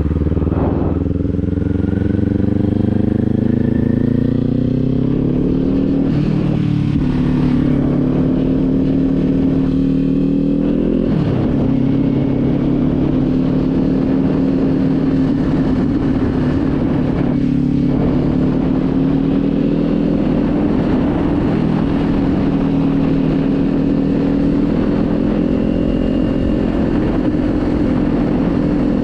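Kawasaki Z400's parallel-twin engine pulling under way, its pitch rising for several seconds, then dropping at gear changes about six and eleven seconds in, before settling into a steady cruise.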